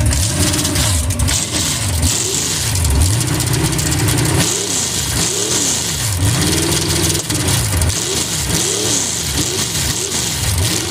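An engine is running and being revved repeatedly. Its pitch rises and falls again and again, in quick blips about once a second in the second half.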